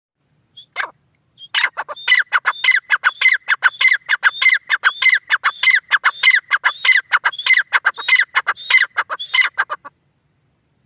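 Francolin (teetar) calling: one short note, then a fast run of sharp, repeated notes, several a second, lasting about eight seconds before stopping.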